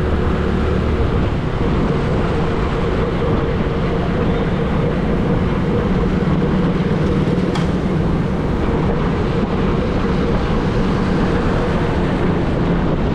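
A motor vehicle's engine running steadily under a loud, even rush of noise.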